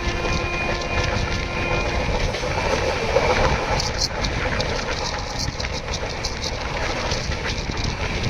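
Indian Railways express train running on the track: a steady rumble, with faint steady tones that stop about two seconds in, then irregular sharp rattling clicks from about four seconds in.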